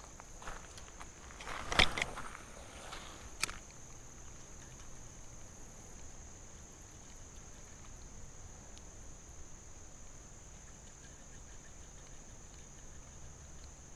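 A steady, high insect drone in the background. A few sharp knocks come in the first few seconds, the loudest about two seconds in and another a second and a half later.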